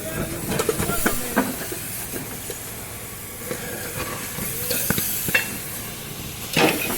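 Irregular knocks and clicks over a steady hiss, from hand work on scrap compressors.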